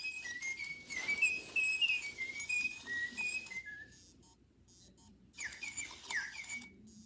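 Clever Keet robotic parakeet toy whistling a tune of short, steady notes that step up and down in pitch. After a pause it gives a few quick falling chirps.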